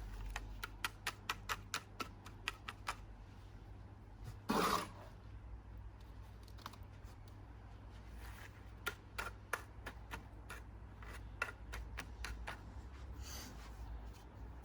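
A small hand tool tapping and scraping against a bird bath as cement is pressed into its cracks: a quick run of light clicks, one louder scrape about four and a half seconds in, then scattered clicks.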